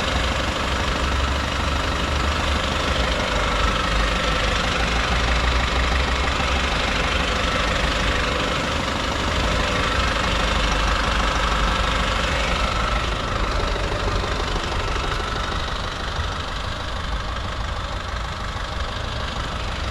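Dongfeng DF6 pickup's 2.3-litre diesel engine idling steadily, not particularly noisy.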